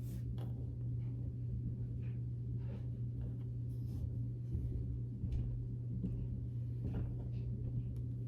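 A steady low hum throughout, with scattered faint clicks, taps and rustles of small plastic toy items and packaging being handled.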